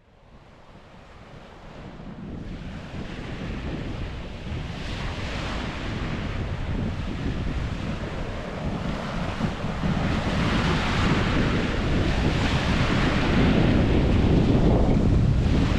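Ocean waves washing onto a beach, with wind buffeting the microphone. It fades in from silence over the first few seconds, and the surf swells now and then.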